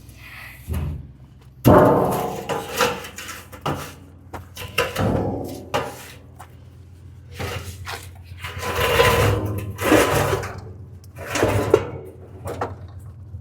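Tow truck engine running steadily under a string of irregular clunks, creaks and scrapes as a truck camper is hoisted, the loudest about two seconds in and around nine to eleven seconds in.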